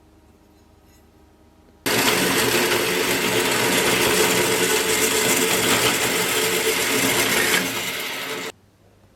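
An electric power tool running loudly and steadily for about seven seconds, starting suddenly about two seconds in, easing slightly near the end and then cutting off abruptly.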